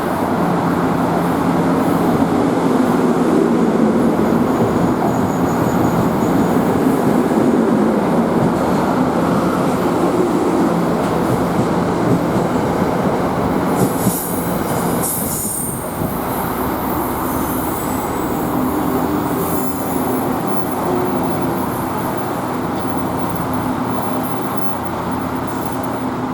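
NJ Transit commuter train led by an ALP-46A electric locomotive running through the station, with a steady hum and rumble of wheels on rail. A burst of high-pitched wheel squeal comes around the middle.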